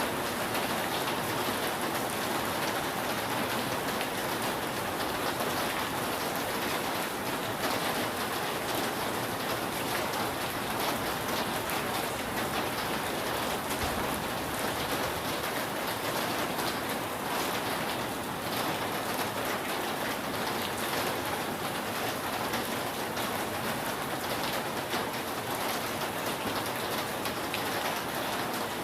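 Steady rain falling on a roof: an even hiss of many drops with fine scattered ticks, holding level throughout.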